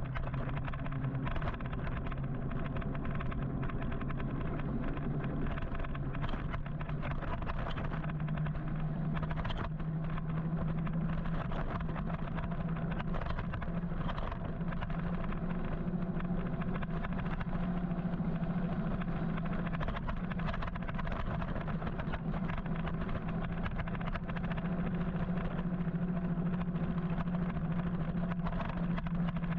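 Road and traffic noise heard from an electric motorcycle riding in city traffic, with a steady low hum that rises a little in pitch about eight seconds in.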